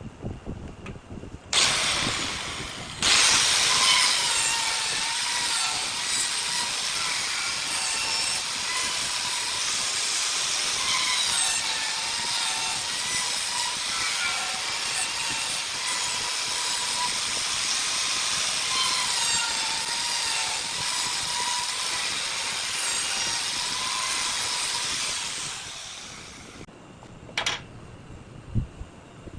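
Power tool working wood, a loud steady hiss with a wavering whine. It starts suddenly near the start, runs for about 24 seconds and stops near the end, followed by a single click.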